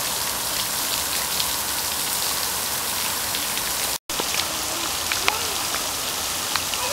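Steady rain falling, with scattered faint drip ticks and a brief dropout about four seconds in.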